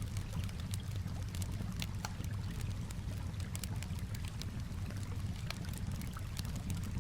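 Campfire crackling with irregular sharp pops over a steady low wash of calm water.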